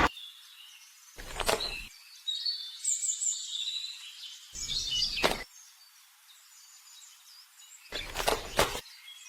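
Small birds chirping in short high calls, with a few sharp knocks in between.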